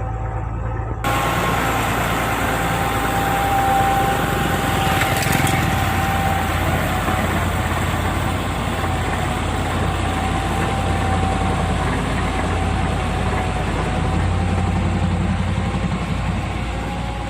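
Tractor engine running steadily with a low hum and a held whine. About a second in, a louder rushing noise joins in and continues.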